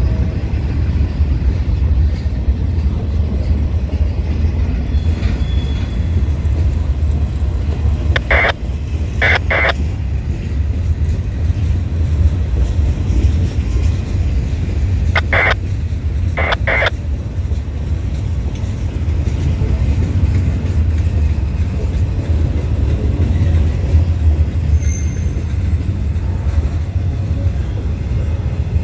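A freight train's cars rolling past, a steady low rumble of steel wheels on rail. Twice, about a third and about halfway through, the wheels give a pair of short, sharp metallic clicks about a second apart.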